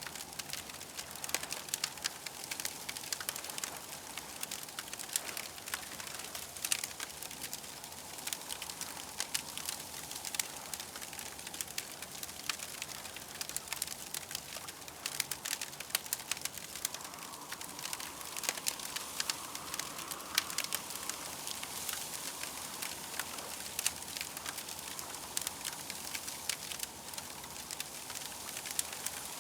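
Campfire crackling: a steady hiss of burning with many small, irregular pops and snaps.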